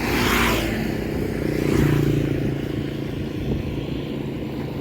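Road traffic passing on a highway: a brief rush of passing-vehicle noise, then a steady engine drone that swells about two seconds in and eases off.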